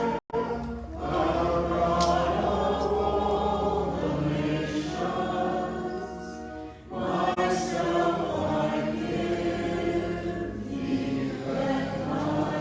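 A choir singing in phrases, with a short pause about halfway through; the sound cuts out for an instant just after it begins.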